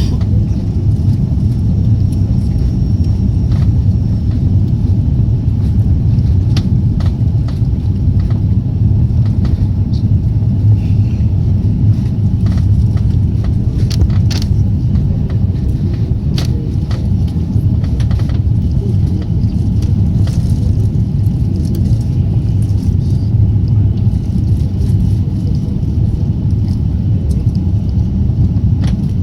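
Steady low rumble of an Airbus A340-300's four turbofan engines and airflow, holding level throughout, with scattered light clicks and rattles.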